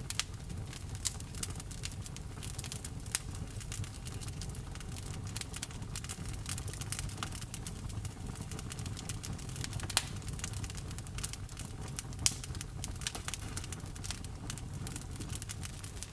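Wood fire burning, crackling with frequent sharp pops over a low steady rumble; the two loudest pops come about ten and twelve seconds in.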